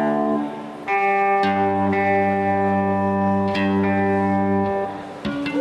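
Amplified electric guitar ringing out long held chords, with a deep low note sounding underneath for a few seconds. A new, pulsing note starts near the end.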